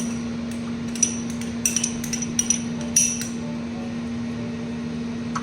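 A utensil clinking and tapping against a bowl several times, in quick clusters in the first half, over a steady low hum.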